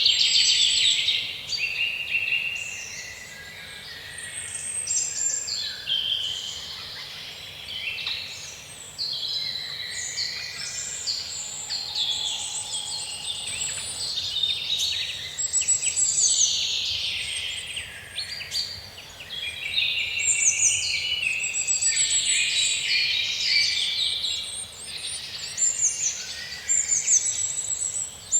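A chorus of many songbirds singing and chirping at once, overlapping trills and chirps all through.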